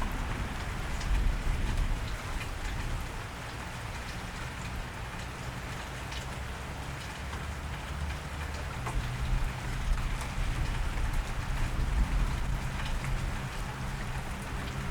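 Steady cold rain falling on a wet street, an even patter with a low rumble underneath.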